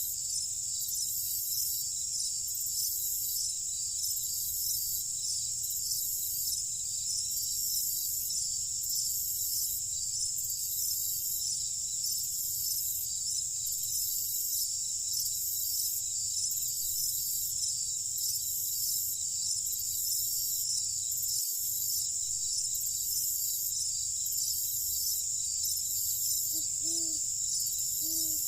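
Night insect chorus: crickets trilling steadily in high continuous tones, with a faster pulsing layer above, over a low steady rumble. Near the end come three short low calls.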